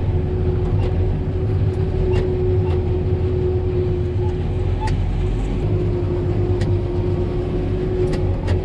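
Tractor engine and silage blower running steadily, blowing chopped corn silage up into an upright silo, with a constant low drone and a steady hum above it.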